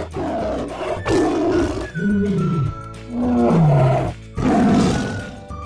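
Tiger roaring about five times in a row, each roar lasting roughly a second, over background music.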